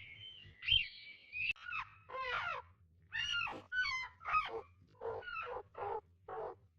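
A baby monkey calling: a run of short, high, pitch-falling cries, one every half second or so, starting about a second and a half in.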